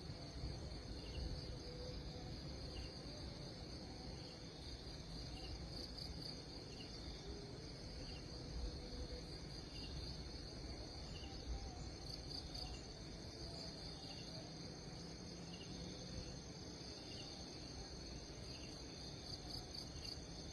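A steady outdoor insect chorus: a continuous high trill like crickets, with a short faint chirp repeating about once a second.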